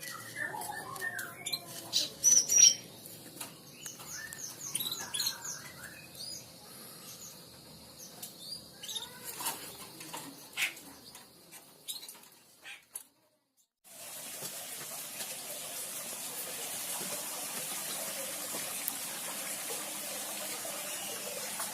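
Small songbirds chirping and twittering in quick, sharp high notes and short trills. About two-thirds of the way through they cut off, and a steady rushing noise like running water follows.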